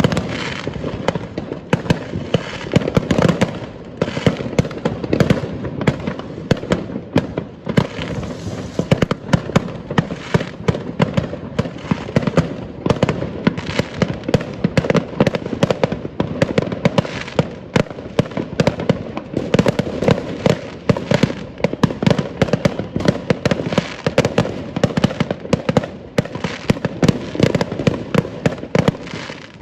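Many fireworks exploding at once in an unbroken barrage of bangs and pops, the blasts overlapping into a continuous rumble.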